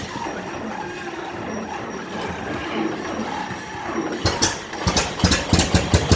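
620 tractor engine being started cold on choke: it cranks for about four seconds, then catches and fires with sharp, uneven pops that come faster near the end.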